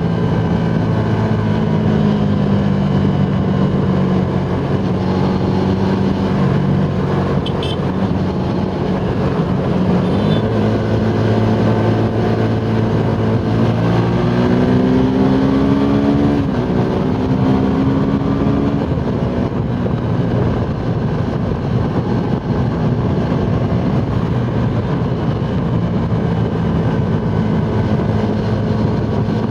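Suzuki Gixxer SF 250's single-cylinder engine running hard under heavy wind rush at speed. About a third of the way in, the engine note drops. It then climbs in a rising sweep, dips briefly, and climbs again before settling into a steady drone.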